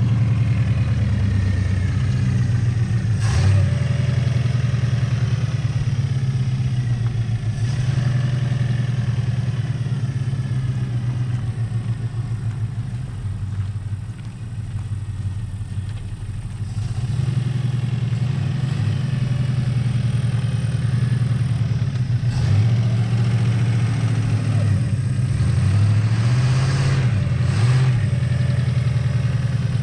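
1968 Buick Skylark's engine running steadily at low speed as the car is driven. It eases off and goes quieter about halfway through, then comes back with a few short revs rising and falling near the end. There are a couple of sharp knocks early on.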